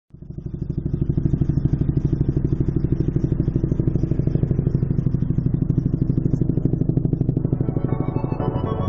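Helicopter rotor thudding in a fast, even beat, fading in over the first second. Music fades in near the end.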